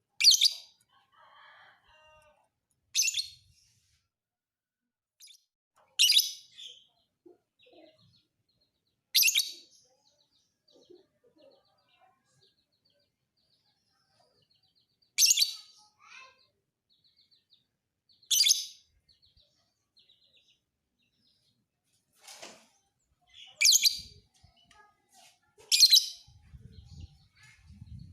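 Fighter lovebird giving short, loud, shrill calls, about eight of them, each under half a second and spaced roughly three seconds apart, with faint soft twittering in between.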